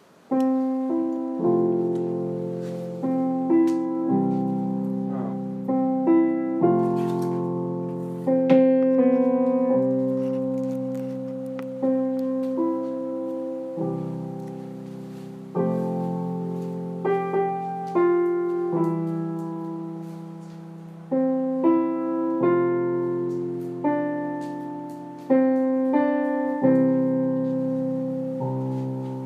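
Background piano music: slow sustained chords, each struck and left to fade.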